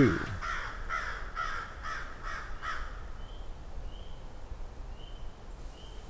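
A bird's harsh calls, repeated quickly about eight times in under three seconds, then a few faint, short high chirps.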